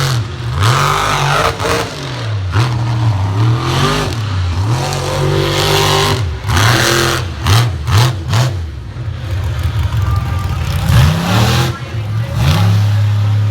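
Monster truck engine revving hard, its pitch repeatedly rising and falling, with a run of sharp loud bursts a little past the middle.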